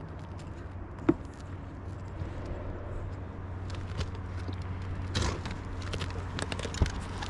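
Scattered knocks and rustling from hands handling and removing building material, with a sharp knock about a second in and another near the end, over a steady low hum.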